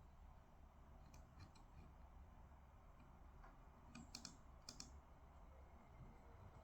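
Near-silent room tone with a few faint, short desk clicks, in two small clusters about a second in and about four seconds in.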